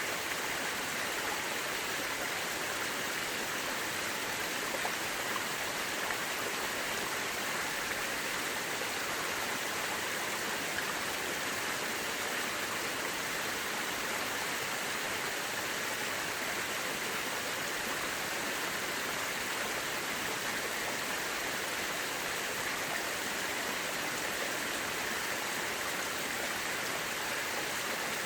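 Mountain river rushing steadily over rocks, an even, unbroken sound of flowing water.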